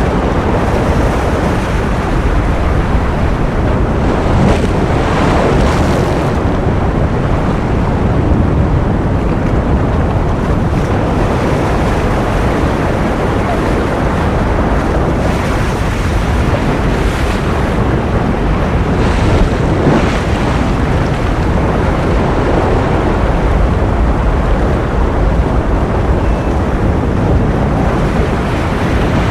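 Ocean surf: a steady, loud rush of waves, heaviest in the low end, with a few faint swells rising and falling.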